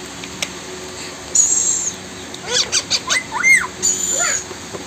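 Indian ringneck parrot calling with chirps and whistles. A thin high whistle comes about a second and a half in and again near the end, with a quick run of short chirps rising and falling in pitch in between.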